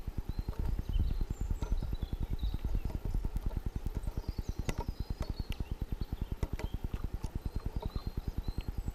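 Great spotted woodpecker hammering at a bird feeder: a rapid, even run of knocks, many a second, that goes on without a break. Faint high chirps of small birds sound over it.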